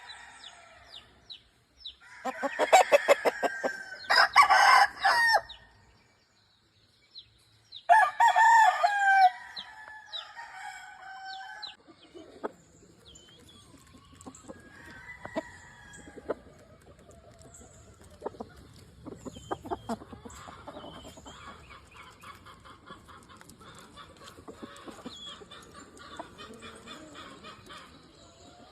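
Gamefowl roosters crowing: loud crows about two seconds in, running to about five seconds, and again about eight seconds in, followed by quieter clucking and small clicks.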